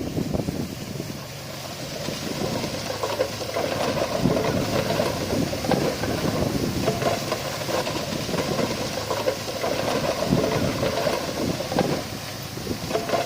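Heavy diesel earthmoving machinery running under load, with irregular clanks and rattles through the engine noise. It grows louder over the first few seconds and eases a little near the end.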